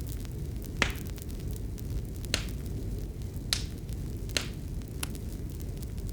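Wood fire burning in a fireplace: a steady low rumble of flames with light crackling and about five sharp pops, the first and loudest about a second in.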